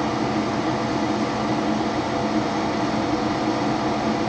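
Gas furnace running on inverter power, its draft inducer motor humming steadily with the burners lit, while the blower fan has not yet come on.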